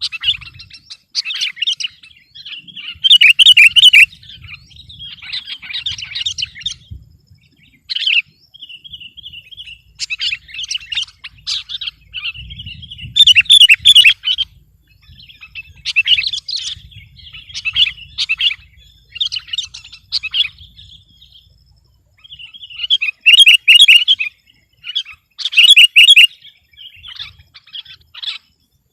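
Sooty-headed bulbul (kutilang) singing in bursts of bright, chattering chirps a second or two apart, the loudest phrases about 3, 13, 23 and 26 seconds in.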